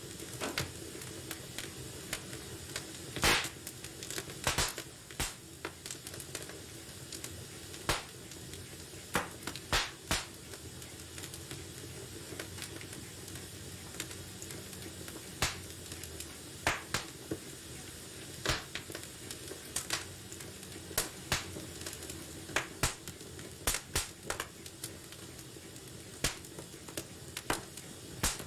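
Wood fire burning in a fireplace: a steady low hiss with sharp irregular crackles and pops scattered throughout, a loud pop about three seconds in.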